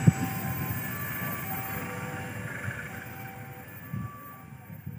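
Passenger train running away down the track, its wheels rumbling on the rails and growing fainter as it recedes. There is a sharp knock just after the start, and thin steady whining tones from the wheels and rails come and go.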